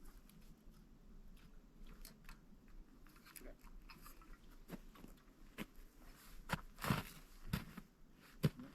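Faint, irregular crunching and clicking, with a louder cluster of crunches near the end.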